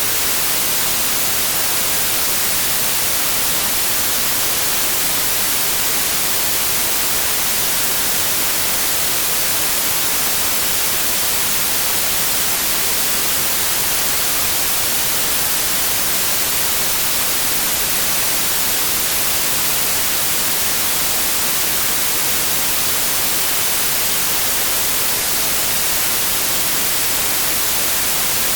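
Steady, unvarying white noise: an even electronic hiss, brightest in the high frequencies.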